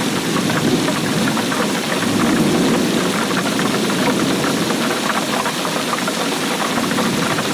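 Steady heavy rainfall: a dense patter of drops over a low rumble that swells about two seconds in.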